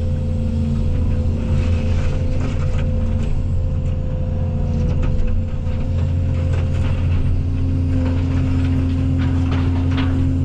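Case CX220E excavator's diesel engine running steadily, with a constant hydraulic tone that strengthens near the end as the machine works. Scattered light knocks through it.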